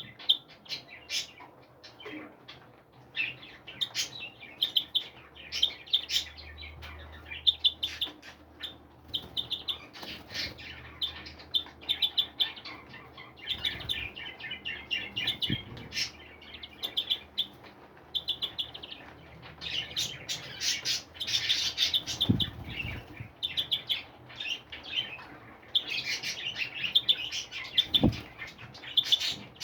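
A flock of small songbirds chirping and twittering continuously in many short, high calls, with a few soft low thumps.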